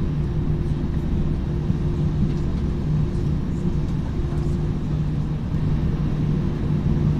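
Steady low drone of an airliner cabin, engine and air-system noise with a constant low hum and no change in pitch.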